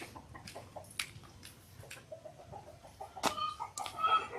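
Chickens clucking, with a run of short calls in the second half, over faint scattered clicks and one sharp click a little past three seconds in.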